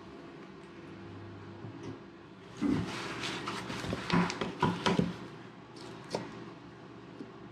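Plastic PVC drain pipe and fittings being handled and pushed together, giving a burst of knocks, clicks and scrapes that lasts about two and a half seconds, then one more click.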